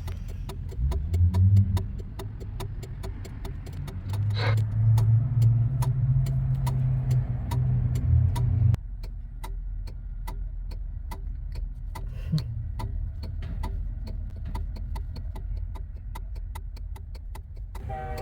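Peterbilt 359's Cummins diesel idling low, with a steady light ticking about three times a second. A louder low drone comes in about four seconds in and cuts off suddenly near the middle.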